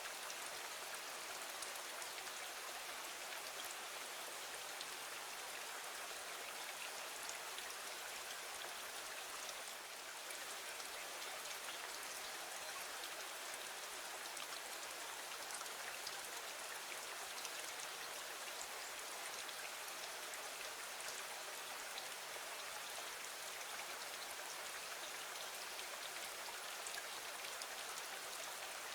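Steady rain falling: an even hiss with faint scattered ticks.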